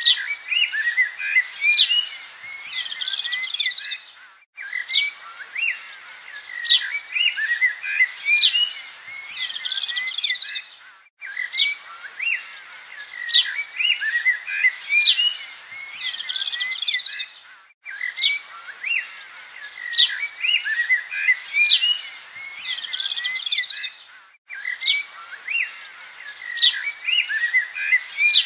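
Looped recording of birdsong: many birds chirping and giving short whistles. The same stretch repeats about every six and a half seconds, with a brief dropout at each loop point.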